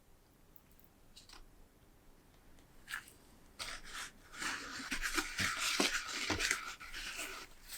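Scratchy rustling and scraping of material being handled, with short clicks, starting about three and a half seconds in.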